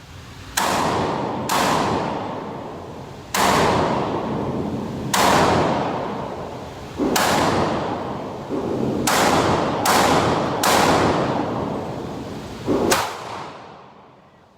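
Gunshots at a shooting range: about ten shots at uneven spacing, with pauses of one to two seconds between some and quicker pairs and triples between others. Each shot trails off over a second or more. The last shot comes near the end.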